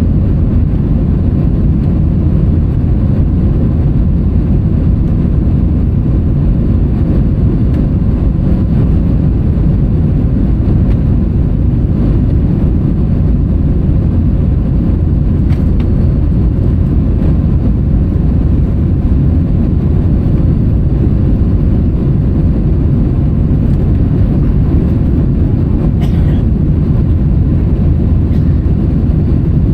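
Steady low rumble of an Airbus A321-200's engines and rushing air heard inside the rear economy cabin, with a short falling high-pitched sound near the end.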